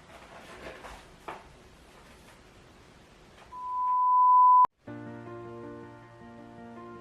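A single steady electronic beep, one high tone that swells for about a second and cuts off sharply with a click, after a couple of seconds of faint clicks. Soft acoustic-guitar background music starts just after the beep.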